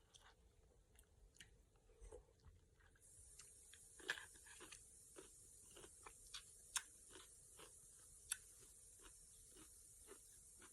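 Faint crunchy chewing of cucumber salad, a crisp crunch about twice a second, over a steady high hiss that comes in about three seconds in.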